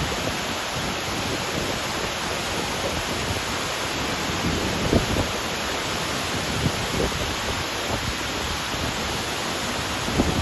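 Steady rush of water from Abe no Ōtaki, a straight-drop waterfall about 45 m high, with a few brief low thumps now and then.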